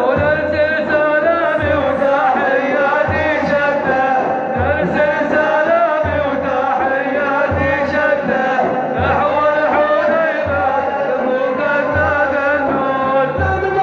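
Male maddah singing an Arabic religious praise chant (madih) in a melismatic, ornamented line, over a low drum beat that falls about every second and a half.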